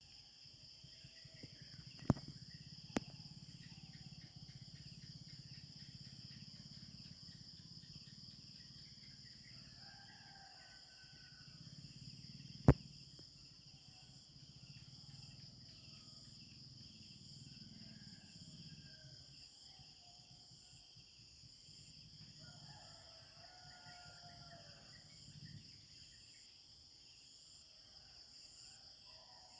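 Steady high-pitched chorus of insects, with faint scattered bird calls and a low rumble underneath. Three sharp clicks stand out, about two and three seconds in and again about thirteen seconds in.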